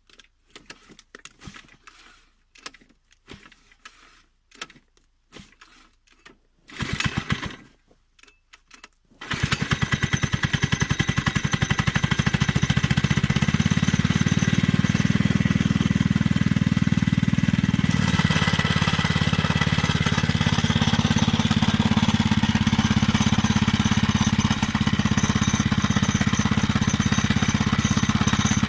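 86cc four-stroke engine of a Chinese minibike being cold-started at −15 °C. After several seconds of clicks and knocks and a short failed attempt about seven seconds in, it catches about nine seconds in and then runs steadily.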